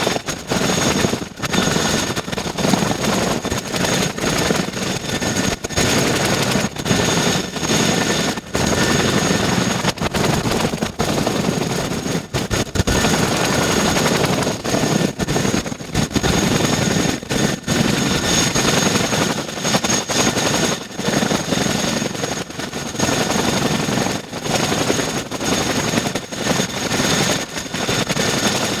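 RAF Boeing CH-47 Chinook's twin turbine engines and tandem rotors running, a steady high whine over loud rushing noise.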